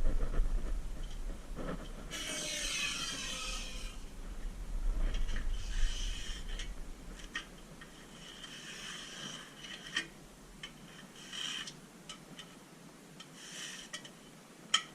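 Intermittent rubbing and scraping strokes, each lasting from half a second to about two seconds, with a couple of light sharp clicks, one about ten seconds in and one near the end.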